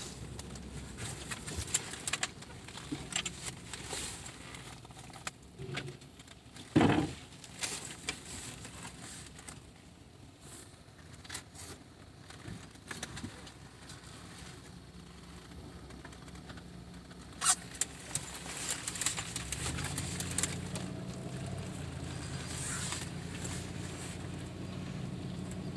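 Scattered light crackling and pattering, with one louder, brief sound about a quarter of the way in. From about three-quarters in, a vehicle engine idles steadily underneath.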